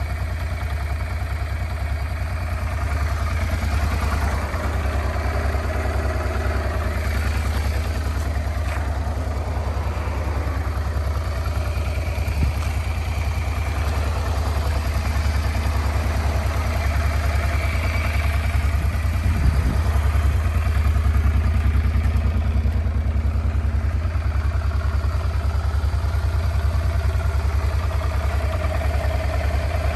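1996 Honda Transalp 400V's water-cooled four-stroke twin idling steadily, with a slight swell in level around two-thirds through. The seller describes the engine as running well.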